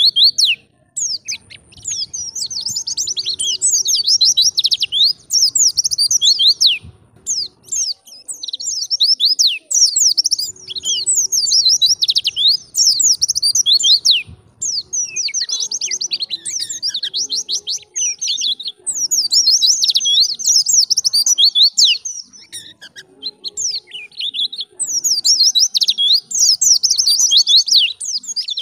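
White-eye (pleci) singing a fast, warbling song of high sweeping notes, in long runs of several seconds broken by brief pauses.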